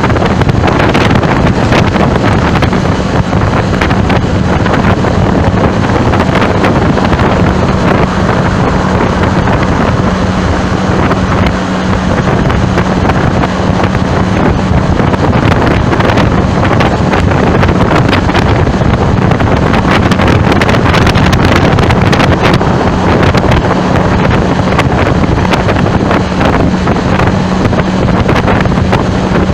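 Loud, steady wind noise buffeting the microphone, with a constant low hum underneath.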